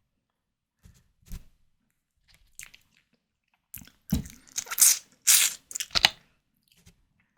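Close-miked mouth sounds of eating white tiger prawns: a few faint clicks, then a loud cluster of biting and chewing from about four to six seconds in.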